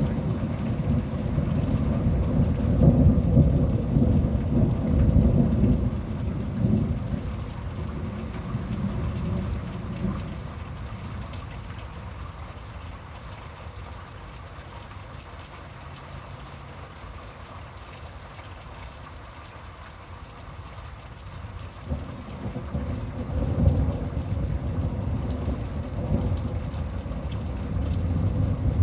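Thunder rumbling over steady rain: a long roll that fades out over the first ten seconds, then a second roll building up about two-thirds of the way through.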